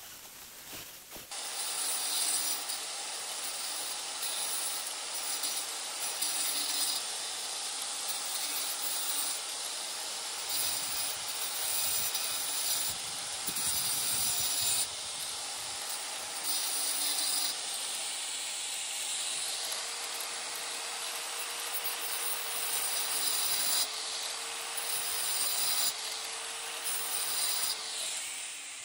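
Electric power tool cutting a notch into a natural stone slab. The tool starts up about a second in, runs steadily through the cut, and winds down near the end.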